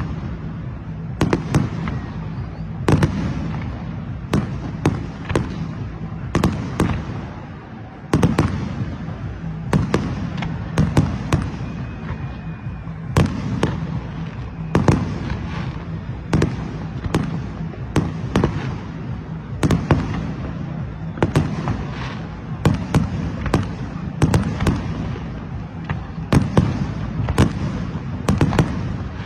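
Fireworks going off without pause: many sharp bangs at irregular intervals, several a second at times, over a steady low rumble of more distant bursts.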